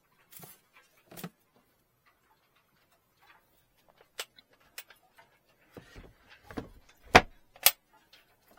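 Scattered clicks and knocks of something being handled, with two loud sharp knocks about half a second apart near the end.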